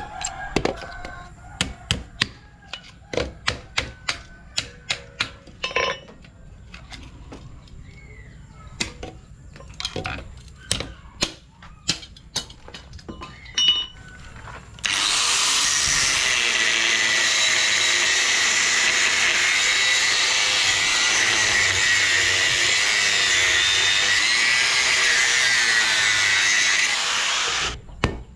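Scattered sharp knocks and taps of workshop metalwork, then a power tool starts about halfway through and runs loud and steady for about thirteen seconds before cutting off abruptly.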